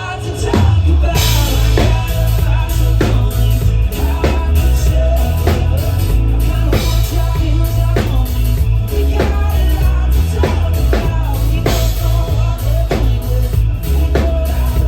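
Live band playing through a loud PA, with a drum kit keeping a steady beat over heavy bass.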